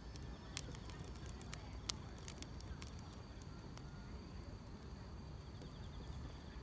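Firewood burning with scattered sharp crackles and pops, the loudest about two seconds in, over a steady low rumble, with grass insects chirring faintly and steadily in the background.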